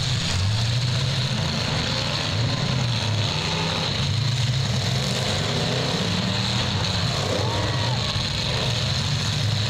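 Engines of several demolition derby cars running and revving together, rising and falling in a steady din. A faint voice is heard partway through.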